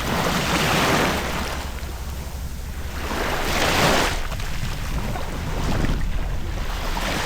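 Surf breaking and washing up on a beach, swelling and falling back every couple of seconds, with wind rumbling on the microphone.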